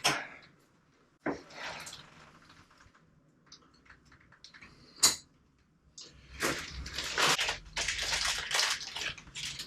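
Plumbing work on a leaking push-fit pipe joint: a few knocks and a sharp click as the pipe and fitting are handled, then several seconds of water splashing and running.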